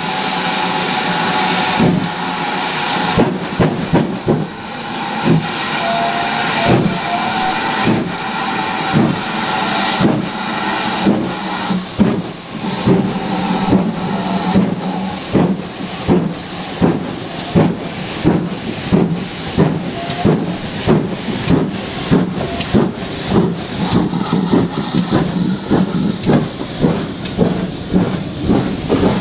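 Steam locomotive working, its exhaust beats coming faster as it gathers speed, over a steady hiss of steam.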